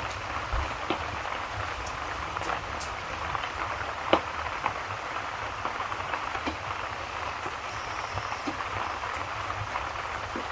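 Steady rain hiss with scattered sharp pops and crackles from a wood fire, the loudest pop about four seconds in.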